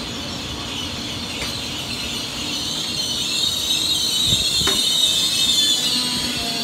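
Taiwan Railways electric multiple unit running along the platform: its wheels rumble on the rails under a high-pitched squeal that grows louder over the first few seconds and eases near the end.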